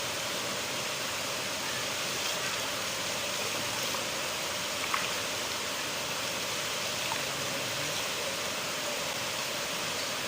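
River water flowing and rushing in a steady, even hiss, with a few faint splashes or drips.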